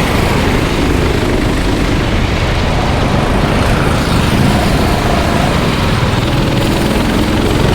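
Engines of race vehicles running on the track, a loud steady drone with faint shifting engine pitches.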